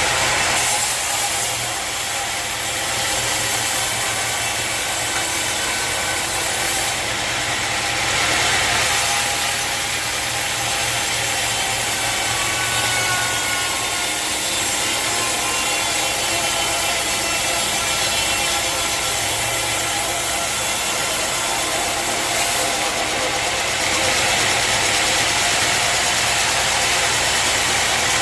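A sawmill blade cutting steadily through a mahogany log, with the mill's engine running under it. The sound is loud and continuous throughout, with a faint whine rising and falling in pitch.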